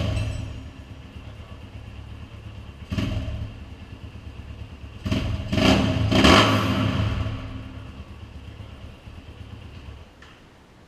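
Honda CRF230F single-cylinder four-stroke engine, fitted with a BelParts aftermarket full exhaust, idling and being revved in three throttle blips, the last one longest and loudest; the engine shuts off about ten seconds in.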